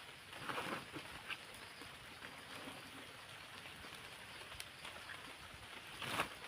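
Steady rain falling, an even hiss of drops, with a brief louder noise about six seconds in.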